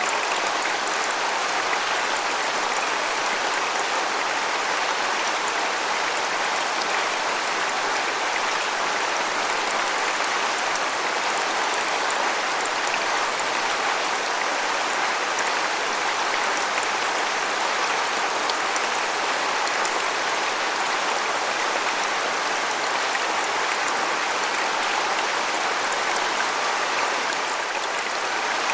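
Waterfall: a steady rush of falling water, without a break.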